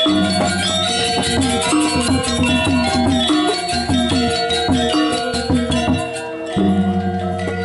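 Balinese gamelan playing: metal percussion holding ringing tones over a fast cymbal clatter and repeated drum strokes. A deep sustained low tone drops out about six seconds in and comes back half a second later.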